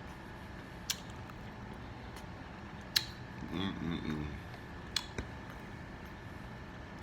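A person eating close to the microphone: a few sharp mouth clicks and smacks spaced a second or two apart, with a short hummed "mm" in the middle.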